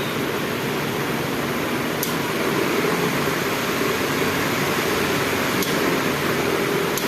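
DC pedestal fan running after a repair to its speed selector, a steady rush of air from the blades, with a few faint ticks.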